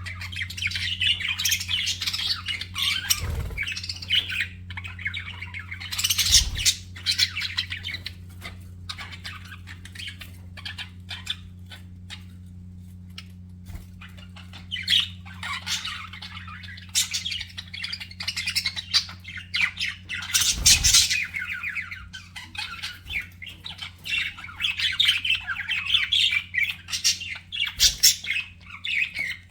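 Budgerigars chattering, warbling and squawking in a busy, continuous stream, thinning out for a few seconds in the middle. A steady low hum and a few soft knocks run underneath.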